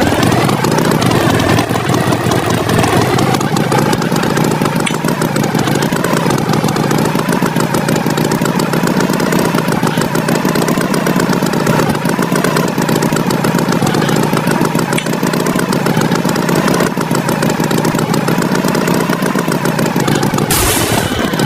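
Engine running steadily with a rapid firing rhythm and a slightly wavering pitch, a tractor engine sound effect. Near the end it breaks off briefly and the pitch then rises.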